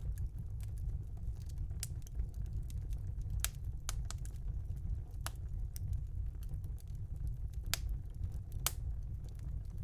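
Fire burning in a fireplace: scattered sharp crackles and pops, a few of them louder, over a steady low rumble of the flames.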